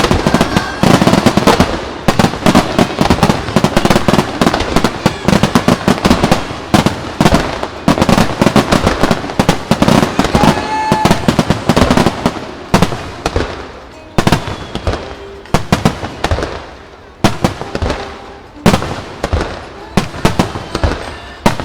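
Aerial firework shells bursting in a dense barrage of rapid bangs and crackles, thinning to more widely spaced bursts about two-thirds of the way through.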